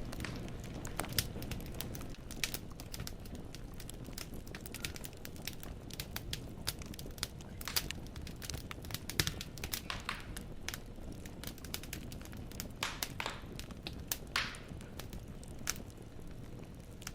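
Wood fire in a fireplace crackling: logs popping and snapping at irregular intervals over a steady low rush of flame.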